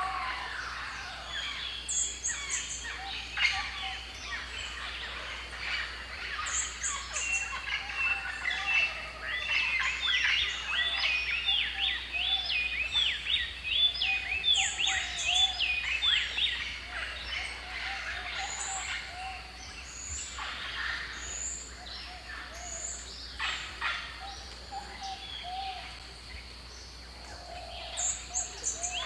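Several birds calling and chirping at once, thickest in a run of rapid chirps around the middle. A short, very high-pitched phrase recurs every several seconds over lower whistled notes.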